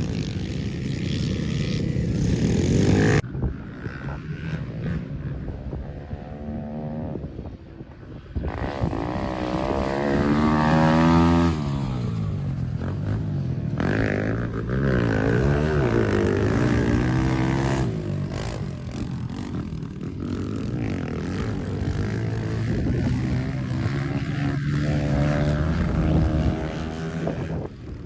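Pit bike engine revving up and down as it is ridden, its pitch climbing and dropping again and again with the throttle. The sound changes abruptly a few times.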